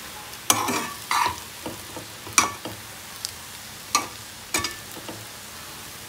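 Metal spoon stirring cooked rice in a wide dark pan, with about seven sharp clinks and scrapes against the pan at irregular intervals, some ringing briefly, over a faint steady hiss.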